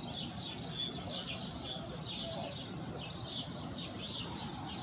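Small birds chirping repeatedly, several short high chirps a second, over steady background noise.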